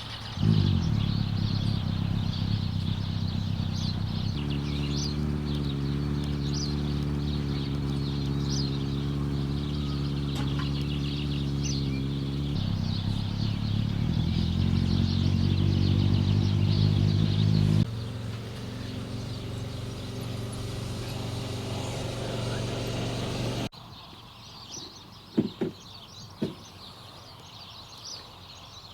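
Motorcycle engine idling steadily at a constant pitch, with birds chirping over it. The engine sound cuts off suddenly near the end, leaving birdsong and a few clicks.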